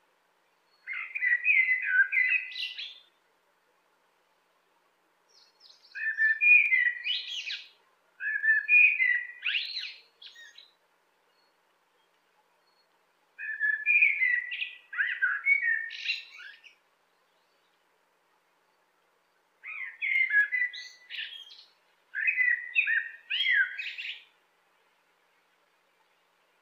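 A songbird singing: six short phrases of quick, varied notes, each one to three seconds long, separated by pauses of a few seconds.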